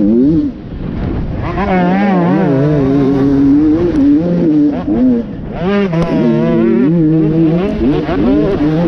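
Enduro dirt bike engine, heard from on the bike, revving up and down continuously as the rider works the throttle, with a short drop in revs about half a second in and sharp climbs in revs twice.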